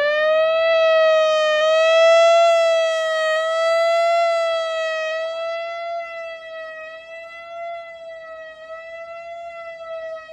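Large outdoor warning siren (tornado siren) holding a steady wail near its top pitch after winding up, the tone wavering slightly. It grows quieter after about five seconds.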